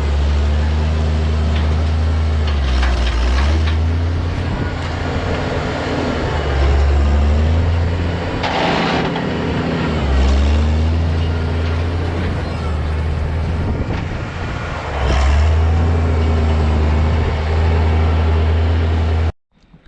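Heavy vehicle engine running steadily, its pitch dipping and recovering several times as the load changes, with a hissing rush about nine seconds in. The sound cuts off suddenly just before the end.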